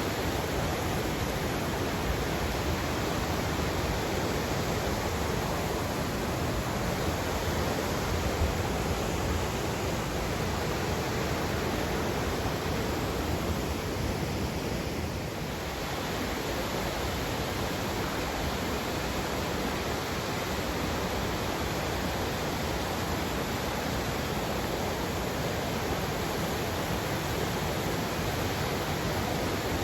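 River water rushing steadily, an even wash of sound with a brief slight dip in the middle.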